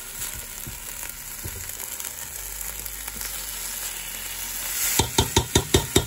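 Diced red peppers sizzling in coconut cream and oil in a non-stick pan, a steady hiss, while a silicone spatula stirs them. Near the end a quick run of about six strokes of the spatula against the pan, the loudest sounds here.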